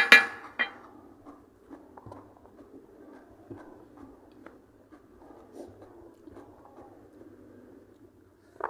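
A person eating: a loud, sharp clatter or crunch at the very start and a smaller one just after, then soft chewing and small mouth and plate clicks, with another sharp clatter near the end.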